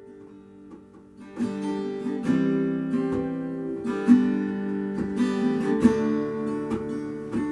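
Acoustic guitar strumming an instrumental intro, soft held chords at first, then strummed louder from just over a second in.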